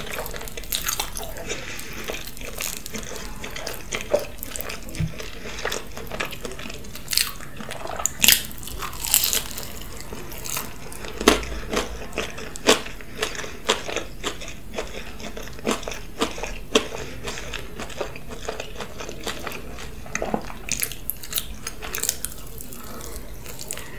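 Chewing and biting into cheese-topped waffle fries, close to the microphone: irregular sharp, wet mouth clicks and crunches.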